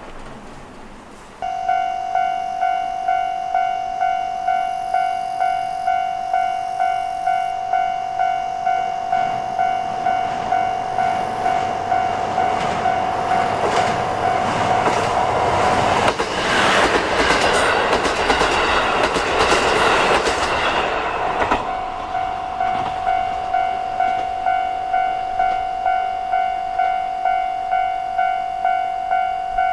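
Level-crossing warning bell dinging in an even rhythm, a little over once a second. Partway through, a diesel train passes with a loud rush of engine and wheel noise that briefly drowns the bell, and the bell rings on after it has gone.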